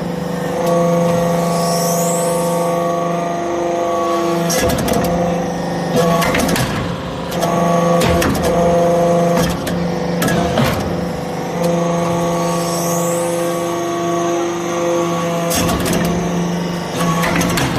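Hydraulic aluminum chips baler running: a steady hum from its hydraulic power unit, broken by clusters of knocks and clatter that repeat about every eleven seconds as the machine cycles, with a short rising whistle twice.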